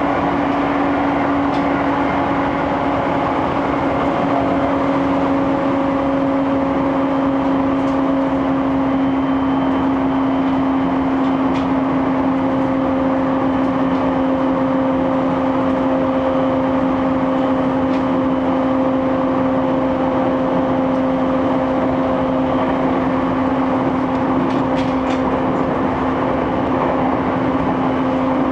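E231 series electric commuter train running at steady speed, heard from inside the carriage: a constant rumble of running noise with a steady hum held at one pitch, and a few faint ticks.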